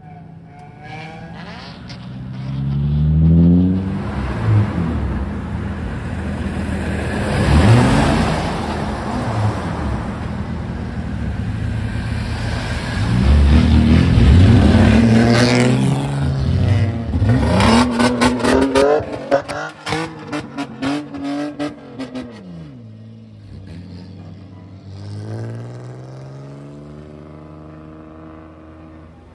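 Kaido-racer cars with loud modified exhausts revving and driving past, the engine pitch climbing and falling again and again. About two-thirds of the way through comes a quick run of sharp throttle blips, then an engine winds down and another revs up.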